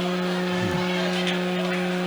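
Steady low hum of a few held, evenly spaced tones, with a brief falling sound about half a second in.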